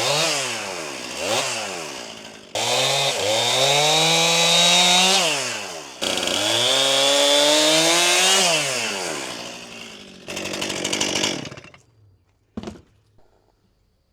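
Stihl MS261 C 50cc two-stroke chainsaw revving. It is opened up to full throttle twice for about three seconds each, pitch sagging as each run ends, then given a short burst before the engine stops near the end. A single sharp click follows.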